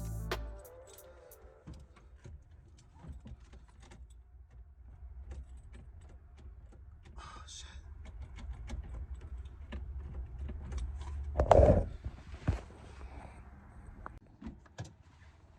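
Turbocharged Acura Integra engine idling with a low, steady rumble, running again now that the broken fuel pump wire has been replaced. Light clicks and rattles of handling, and one loud knock about eleven and a half seconds in.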